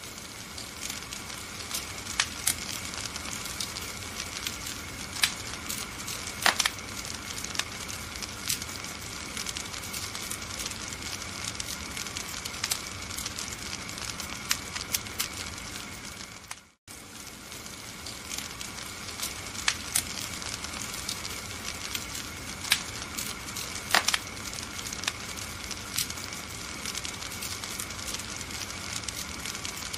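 Wood fire crackling: a steady hiss broken by sharp pops every second or so. A little over halfway through, the sound briefly fades out to silence and comes straight back.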